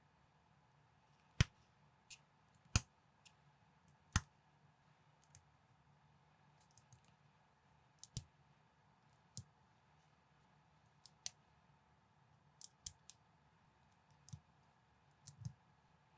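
Plastic building bricks being handled and snapped together: sharp, sparse clicks at irregular intervals, the loudest snaps about one and a half, three and four seconds in.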